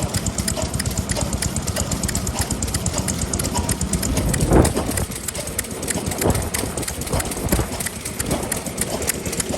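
Antique stationary engines running at low speed, giving a rapid, even clatter of ticks and knocks over a low rumble, with one louder knock about four and a half seconds in.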